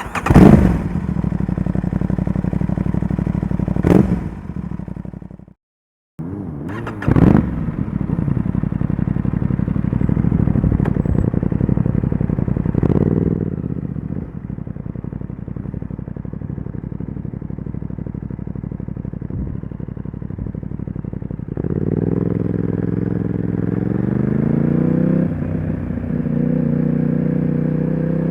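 Aprilia RS 660's parallel-twin engine through an aftermarket SC-Project SC1-R exhaust, idling with a few sharp throttle blips, then revving up and pulling away about twenty seconds in, the engine note climbing and stepping up.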